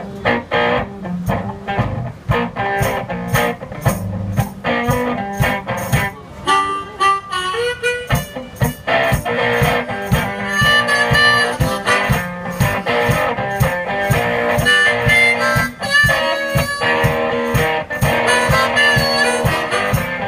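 One-man band playing harmonica over guitar, with a steady beat of sharp percussive strikes.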